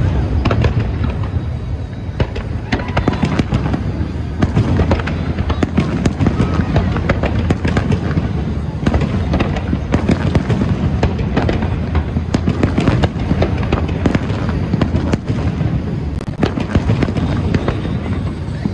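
Aerial firework shells bursting in a rapid, dense barrage: overlapping booms with crackling, one on top of another.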